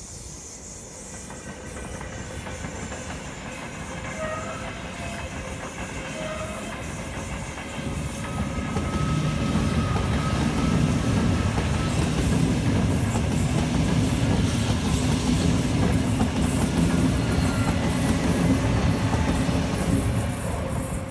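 A train passing on the rails, its wheels clattering over the track. The sound builds gradually and grows loud about eight seconds in, staying loud until near the end.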